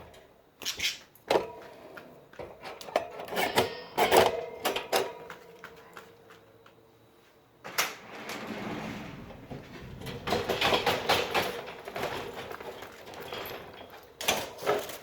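Clicks, knocks and rattles of a birdcage being handled, in two bouts with a short lull between them and a sharp pair of knocks near the end.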